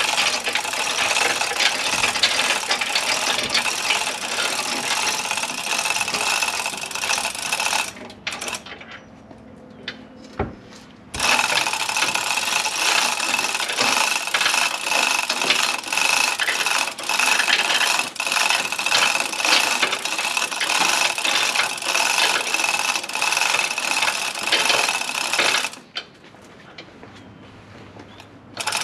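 A rattling motor-driven mechanism runs in two long spells, dropping away for a few seconds about eight seconds in and again near the end.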